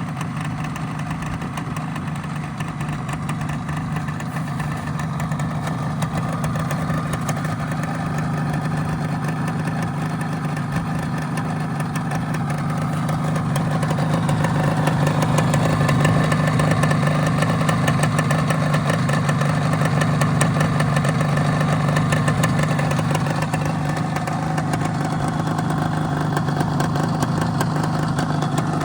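1977 Suzuki GT125's air-cooled two-stroke twin engine idling steadily after restoration, growing a little louder toward the middle.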